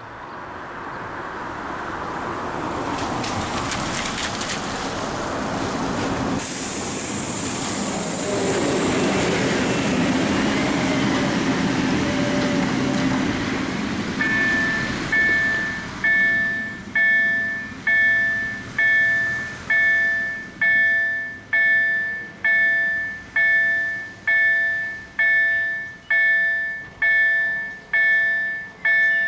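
A train passes a level crossing, its rumble building over the first half. About halfway through, the crossing's KLD-4103 slow-ringing electronic warning bell starts striking, a little more than once a second, each stroke ringing out and fading.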